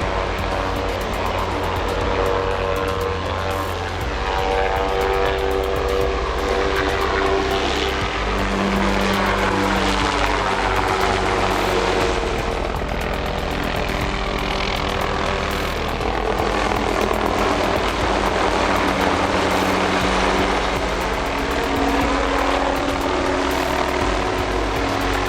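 MD-530G light helicopter in flight: a steady rotor and engine drone whose tones slowly drift in pitch as it moves about.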